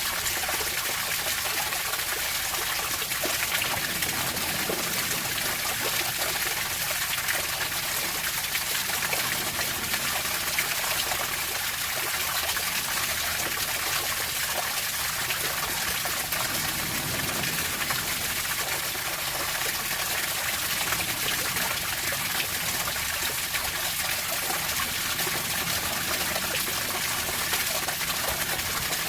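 Running water trickling and splashing steadily, an even hiss that keeps the same level throughout.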